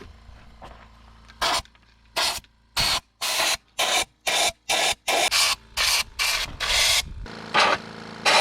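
A fast run of short, gritty scraping strokes, about two a second, with brief silences between them: a hand tool scraping through dirt and rock. The strokes begin about a second and a half in, pause briefly near the end, then come twice more.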